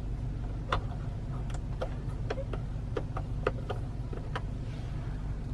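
Light ticking at an even pace, about three or four ticks a second, over a low steady hum inside a car's cabin.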